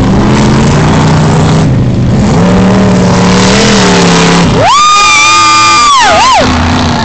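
A lifted Chevy Blazer's engine revving up and down under load in deep mud. About four and a half seconds in, a loud, high-pitched held sound takes over for about two seconds and dips in pitch as it ends.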